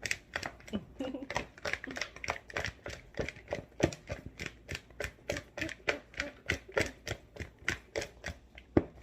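Chicken wings being mixed with barbecue sauce in a container: rapid, irregular clacking of about four or five knocks a second, with one sharper knock near the end.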